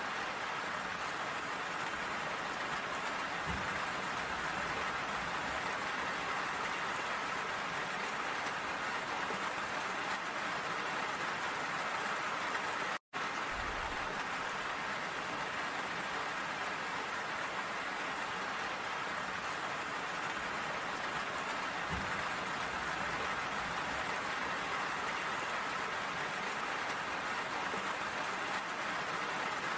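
Steady rain falling and pattering on surfaces, an even hiss of drops. It cuts out for an instant about halfway through.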